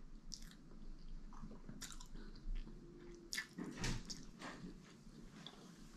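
Close-miked mouth sounds of someone chewing and biting food, with scattered small clicks and smacks.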